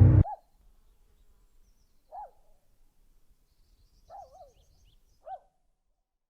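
Background music cuts off just after the start. A bird then gives short, single calls every second or two, one of them doubled, with faint high chirps of small birds in the background near the end.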